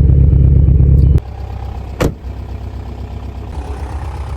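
Volkswagen 1.9 TDI (ALH) four-cylinder turbodiesel running shortly after a hard cold start. It is loud and close for about a second, then drops suddenly to a quieter, steady idle. A single sharp click comes about two seconds in.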